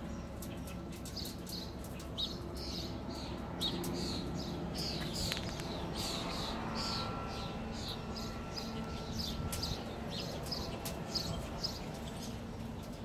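A small bird chirping over and over, in short high notes that fall in pitch, about two or three a second. A low steady hum runs underneath.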